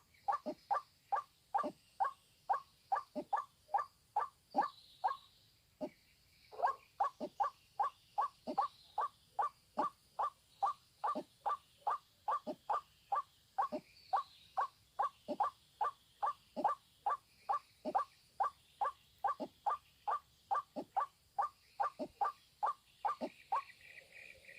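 White-breasted waterhen (ruak-ruak) calling: a long, even run of short repeated notes, about two to three a second, with a brief pause about six seconds in. The calls stop shortly before the end.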